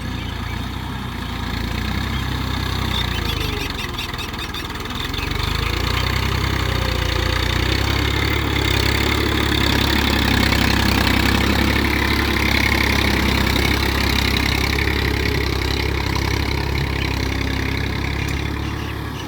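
TAFE 45 DI 4WD tractor's diesel engine running steadily. It grows louder about five seconds in and eases off just before the end.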